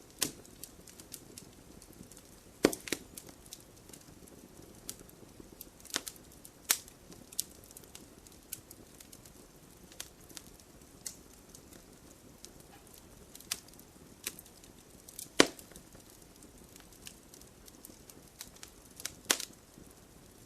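Wood campfire burning with a low steady hiss and irregular sharp crackles and pops. The loudest pop comes near three-quarters of the way through.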